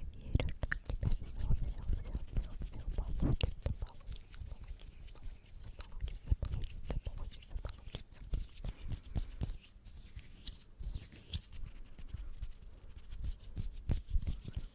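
Close-miked ASMR trigger sounds: a dense, irregular run of small clicks, taps and rustles right against the microphone, with soft low thumps.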